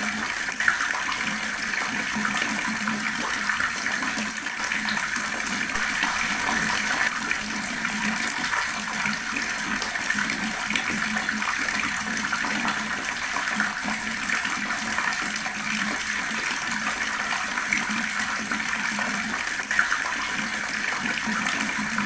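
Water tap running steadily, the water gurgling.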